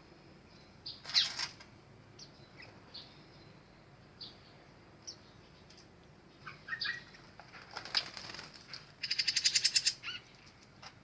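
Aviary birds: scattered short, high chirps, with a quick run of wing flaps about nine seconds in, the loudest sound here.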